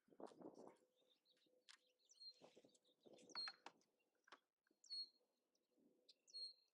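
Faint bird chirps, four short calls spread out, with soft rustles and small clicks underneath.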